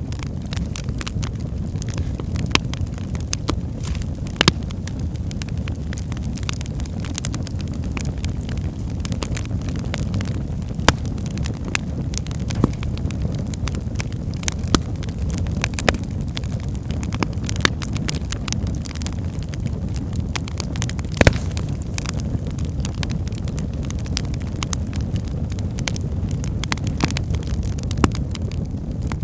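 Wood fire burning in a fireplace: a steady low roar of flames with irregular sharp crackles and pops from the logs, one louder pop a little past two-thirds through.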